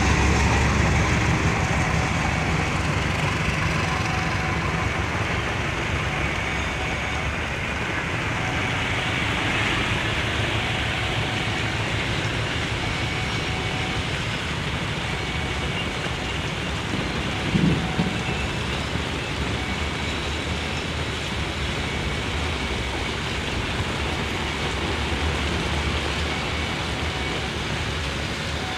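Steady rain falling, with the low rumble of a passing train fading away over the first few seconds. A single short thump about two-thirds of the way through.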